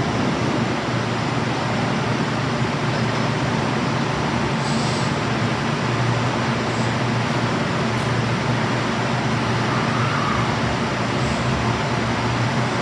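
Steady low rumble and hiss with a faint hum at a railway station platform, after a departing train's wheel clatter has passed.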